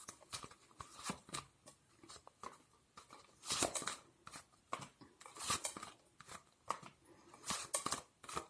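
Tarot cards being handled and shuffled: a run of short papery clicks and snaps, with a few longer rustles of the cards sliding against each other.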